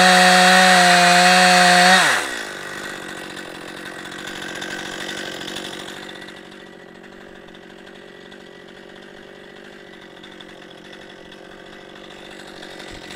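Chainsaw on a chainsaw mill running at full throttle through a log. About two seconds in, the throttle is released and the engine note falls quickly, and the saw runs on much more quietly.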